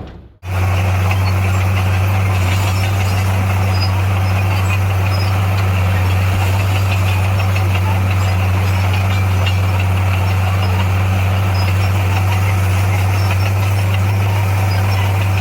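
Heavy diesel engine of a bulldozer running steadily with a deep, even hum, starting just under half a second in after a short gap.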